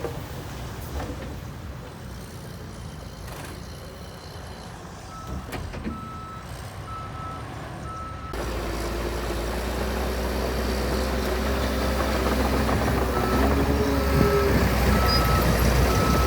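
Heavy earthmoving machine's diesel engine running while its reversing alarm beeps at a regular pace. About eight seconds in the engine sound suddenly becomes louder and deeper, and the beeping carries on.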